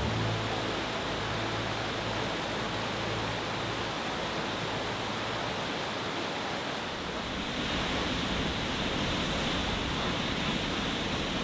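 Steady rushing of water, an even hiss with no distinct drops or splashes; the balance shifts slightly about seven seconds in.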